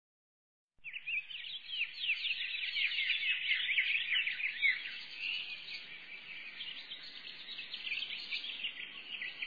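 Many small birds chirping together, a dense run of quick, high twittering calls. It starts abruptly about a second in, after a silent gap, and stops sharply right at the end.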